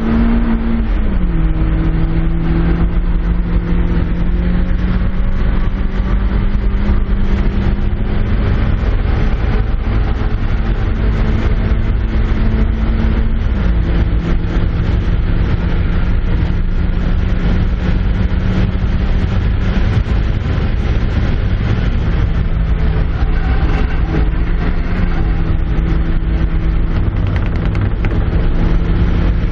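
1997 Mazda Miata's 1.8-litre four-cylinder engine, with stock intake and exhaust, running hard at speed on a race track, heard from inside the open cabin over wind and tyre noise. The engine note drops sharply twice, about a second in and again around halfway, as the gears change, and otherwise holds high and steady.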